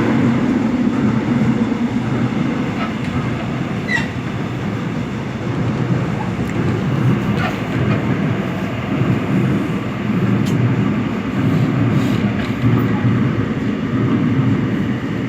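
Seoul Metro Line 7 subway train running between stations: a steady rumble of wheels and motors, with a few faint clicks from the wheels passing over the track.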